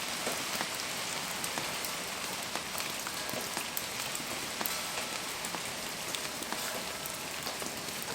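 Steady rain falling, with many small ticks of drops striking a surface.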